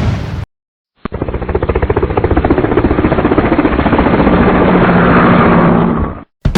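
Helicopter sound effect: rotor blades chopping in fast, even pulses, growing louder over a few seconds and then cutting off suddenly. Just before it, the tail of a boom dies away.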